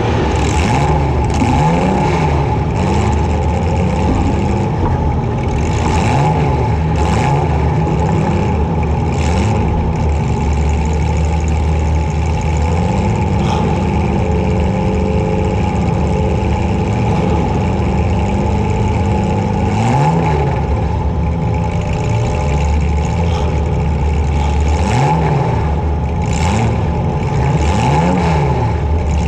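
Compact demolition derby car's engine, heard from on board, revving up and falling back again and again, with scattered bangs of the car hitting or being hit.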